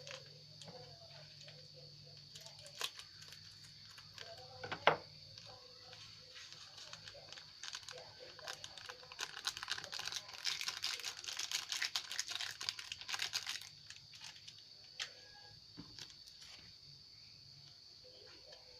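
Plastic instant-noodle seasoning sachets crinkling and being torn open, with scattered clicks and a dense run of crinkling from about eight to fourteen seconds in.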